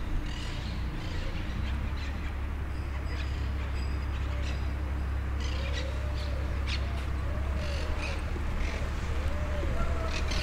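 Small birds chirping over a steady low rumble. About halfway through, a run of short rising-and-falling calls starts, repeated about twice a second.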